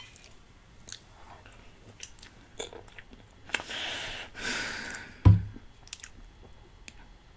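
Close-up chewing and small wet mouth clicks of someone eating dense cheesecake. About three and a half seconds in comes a longer noisy rush lasting over a second, and just after five seconds there is a single sharp thump.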